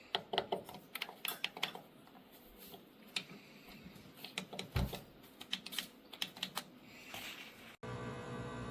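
A run of irregular light clicks and taps, with a dull thump about halfway through.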